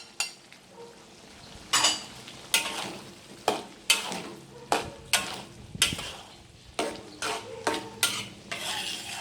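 A pan of sambal frying and sizzling, stirred with a spoon that scrapes and knocks against the pan in irregular strokes about once a second.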